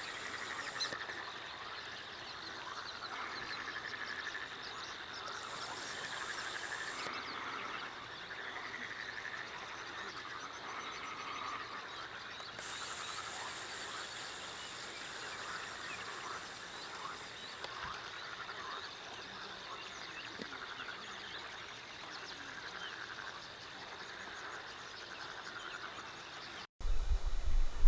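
Chorus of frogs croaking steadily, many overlapping calls. Near the end it cuts off suddenly and a much louder low rumble takes over.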